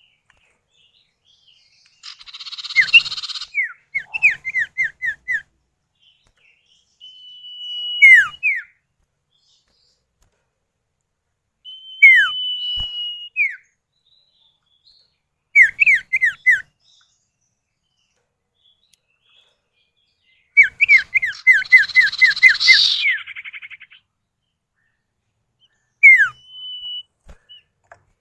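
Sirtu (cipow) birds, male and female, calling back and forth. The calls are quick runs of high downward-slurred whistled notes and long level whistles, with a harsh rasping chatter about 2 seconds in and again near 21 seconds in.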